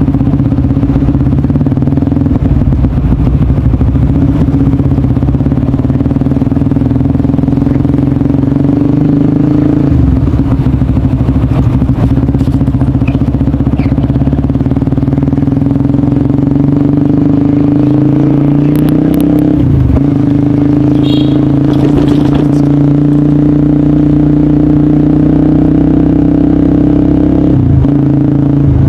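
Honda CBR150R's single-cylinder engine running through a DST aftermarket exhaust while riding, holding a steady note that dips briefly three times.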